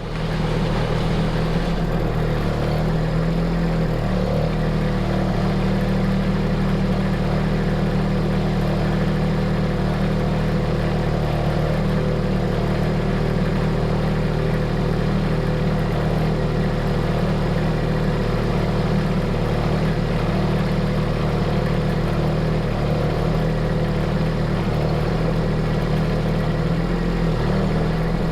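A heavy machine's engine running steadily, with a strong low hum and no change in pitch or level.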